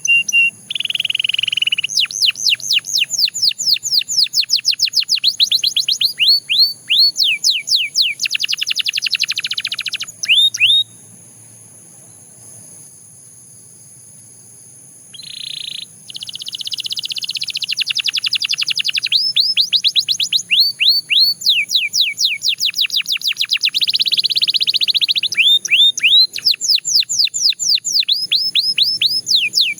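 A Belgian canary singing: long runs of rapid repeated notes, each a quick downward sweep, mixed with a few steady buzzing rolls. The song breaks off about eleven seconds in and starts again about four seconds later.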